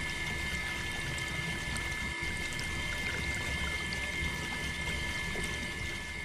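Mini water pump running, with water trickling and pouring out over a steady high whine from its small motor.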